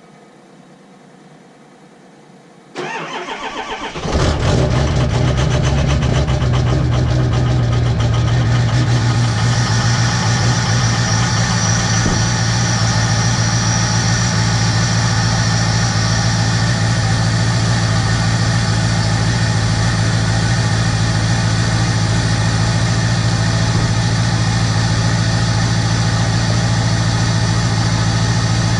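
Ford Power Stroke V8 turbo-diesel in a 2004 F-350 being cold-started on a frosty morning: the starter cranks it for about a second and a half, then it catches about four seconds in and settles into a loud, steady idle. A high whine sits over the idle for several seconds after it catches.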